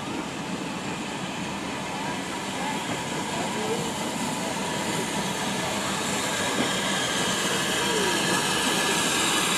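Steam-hauled train approaching on the line, its running noise growing steadily louder. Voices of onlookers are faintly mixed in.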